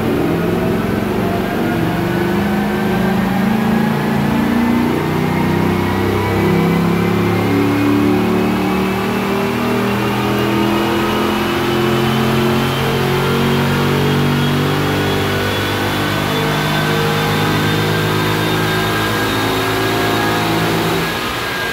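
A 2005 Cadillac CTS-V's LS6 V8 at full throttle in a long, steady dyno pull, the car's speed climbing on the rollers, with a whine rising smoothly in pitch throughout. The engine backs off near the end as the run finishes.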